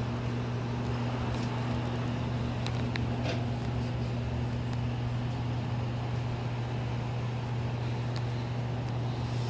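A steady machine hum holding one low pitch, with a higher tone that fades out about six seconds in and a few faint ticks.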